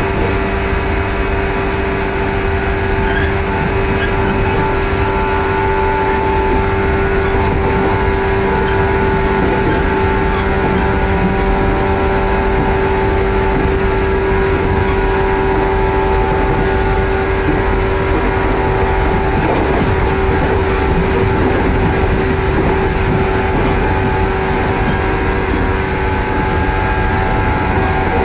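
Moving train heard from inside a passenger car at speed: a steady low rumble of wheels on rail with wind noise through an open window and a steady motor hum.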